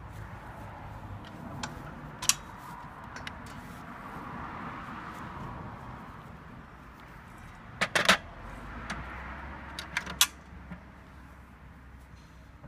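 Sharp metallic clanks and clicks from the parts of a manual butt welding machine for PE pipes being handled. A few single knocks come early, a quick cluster falls about two thirds of the way through, and two more follow shortly after, all over a steady background noise.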